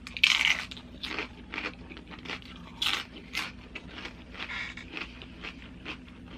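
Close-up crunching as tortilla chips from loaded nachos are bitten and chewed, with a run of crisp cracks, the loudest in the first second and again about three seconds in.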